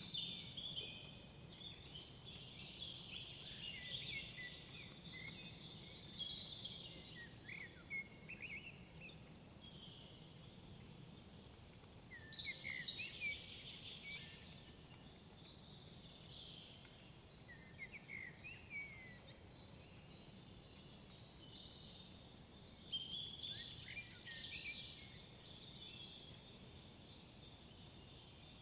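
Woodland songbirds singing: short song phrases of two or three seconds, repeated roughly every five or six seconds, over a steady low background hiss.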